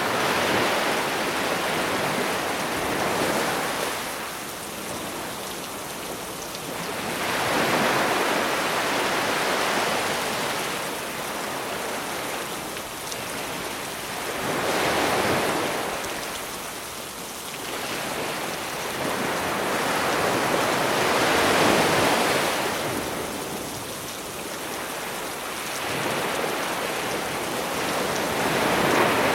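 Sea waves breaking and washing up the shore, swelling to a surge about every seven seconds, under a steady hiss of rain.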